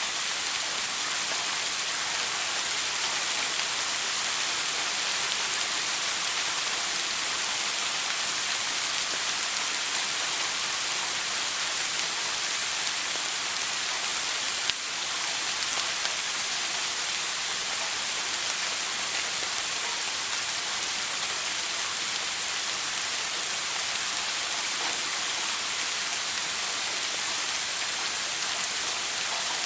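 Shower spray running steadily, an even hiss of falling water strongest in the high range. One brief click about halfway through.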